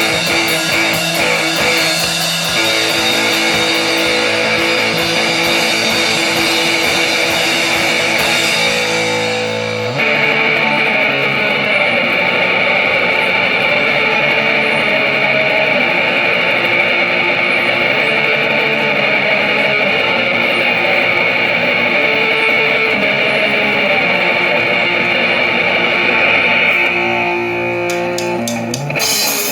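Live rock band playing an instrumental passage with loud electric guitar and no singing. Drums and cymbals drop out about a third of the way in, leaving a held, ringing guitar sound, and sharp drum hits come back near the end.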